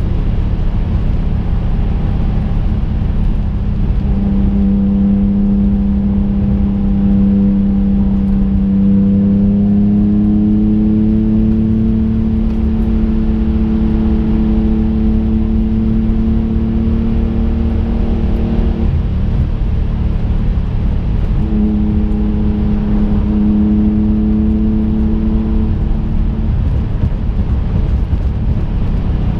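Twin-turbo 3.5-litre V6 of a 2005 Infiniti G35 coupe, heard from inside the cabin while driving. Its note climbs slowly as the car pulls, drops away about two-thirds of the way through and comes back a couple of seconds later, over a steady road rumble.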